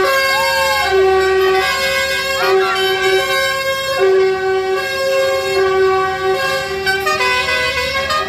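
Vehicle horns tooting again and again from passing tractors: one steady note sounded in short and longer blasts, rising to a higher note briefly near the end.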